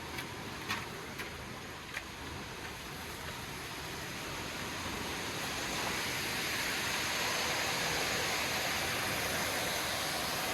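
Waterfall's rushing water, a steady hiss that grows louder over a few seconds and then holds. A few light taps in the first two seconds.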